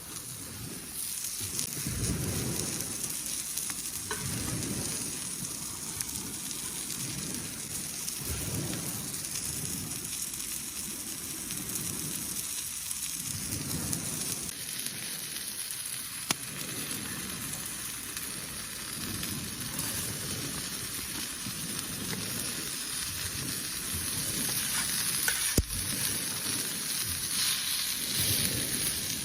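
A steady hiss with irregular low rumbles every second or two, and a single sharp knock near the end.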